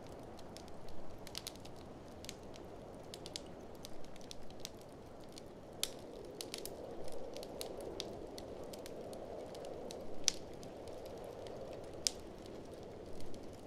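Wood fire in a fireplace crackling, with scattered sharp pops, over a steady low rushing of blizzard wind that swells for a few seconds midway.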